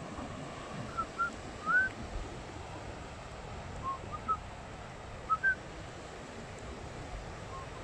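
A bird calling in short whistled notes, some rising, in little groups of two or three, over a steady rush of wind and surf.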